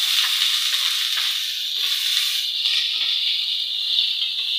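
Chopped onions, garlic and ginger sizzling in hot cooking oil in a pan, just after the onions go in. A steady hiss that is loudest at the start, with a few faint pops.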